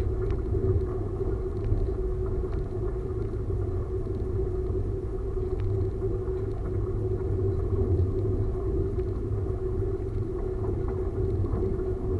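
Diesel railcar running steadily along the track, heard from the driver's cab: a low rumble of engine and wheels on rail with a steady hum, and a few faint ticks.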